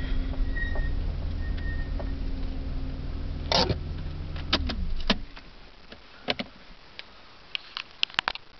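BMW 328's 2.8-litre straight-six engine idling, heard from inside the cabin, then switched off about five seconds in, its note falling away as it stops. Sharp clicks and knocks come around the shutdown: one loud one shortly before it and several lighter ones after.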